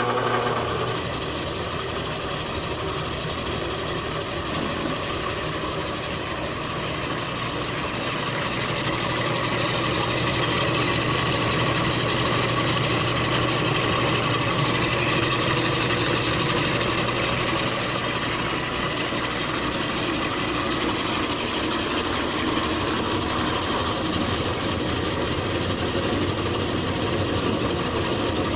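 Homemade wooden 12-inch bandsaw running on its first test: a steady electric-motor hum under the even whir of the spinning wheels and blade, growing a little louder several seconds in.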